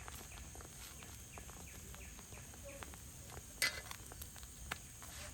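Forest ambience: a steady high insect drone, with small chirps repeating about twice a second. About three and a half seconds in there is one short scrape or rustle.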